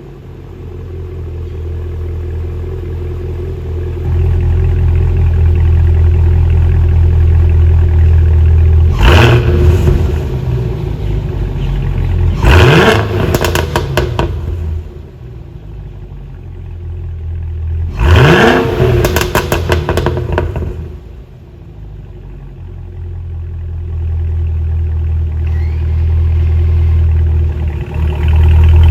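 Cadillac CT5-V Blackwing's supercharged 6.2-litre V8 idling with a deep rumble, revved sharply three times. Each rev rises quickly, then drops back with a rapid crackle of exhaust pops before settling to idle.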